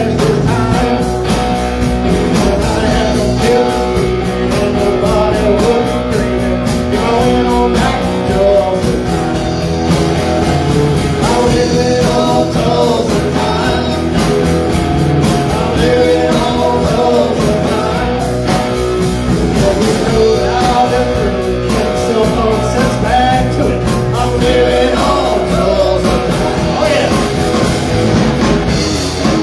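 Live outlaw-country band playing a song, with guitars over bass and drums.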